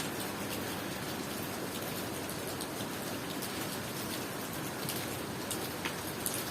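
Steady tropical rain falling, with individual drops tapping sharply on nearby surfaces now and then.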